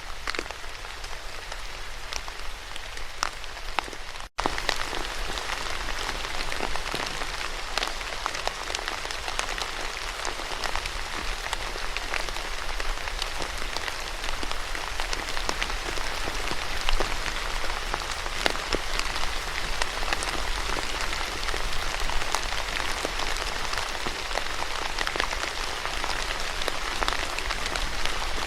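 Steady rain falling, with many individual drops ticking through the hiss. About four seconds in the sound drops out for a split second, then resumes a little louder.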